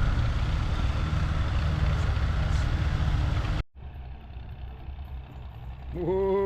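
Antique tractor engine running steadily, then breaking off abruptly about three and a half seconds in. A quieter engine idles after the break, and near the end a drawn-out shout of "whoa" begins.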